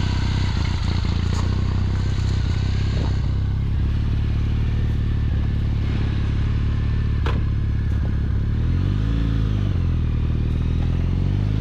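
Triumph motorcycle engine running as the bike is ridden, its pitch rising and falling twice near the end, with clattering and scraping from the tyres on loose gravel.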